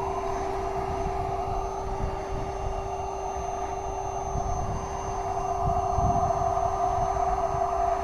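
Electric air pump running steadily as it inflates an inflatable boat, its tone slowly falling as the boat fills.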